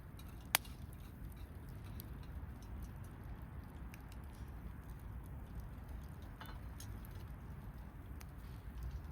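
Campfire burning with a steady low rumble, scattered small crackles and one sharp pop about half a second in.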